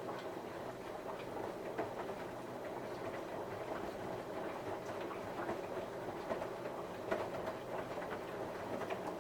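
Samsung washing machine on a 60 °C cotton wash, its drum turning with a steady hum and scattered small clicks.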